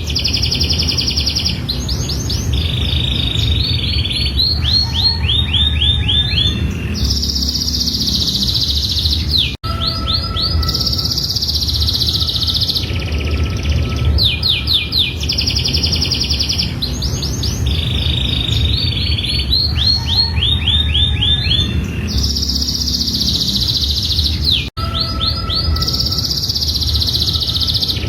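Domestic canary singing a long, continuous song of fast rolling trills and drawn-out buzzy phrases, over a steady low rumble. The same song passage repeats about every fifteen seconds, with a brief dropout at each repeat: a looped recording.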